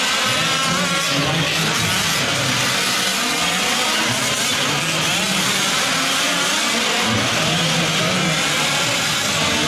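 Several 1/5-scale gas RC trucks' small two-stroke engines revving and easing off as they race, many buzzing engine notes overlapping and rising and falling in pitch.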